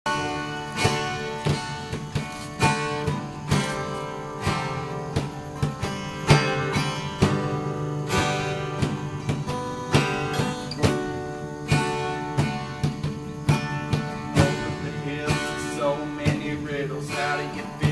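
Acoustic guitar strumming chords in a steady rhythm, playing a song's intro.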